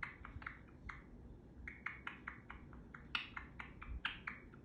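Pet parrot making a run of quick, quiet clicking chatter, several clicks a second with a brief pause about a second in.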